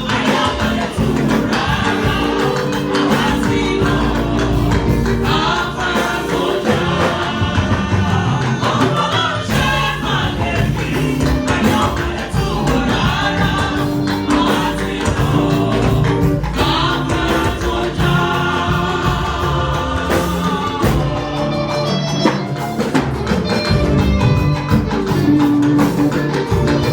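Church choir singing a gospel anthem with band accompaniment: a steady bass line and regular percussion under the voices.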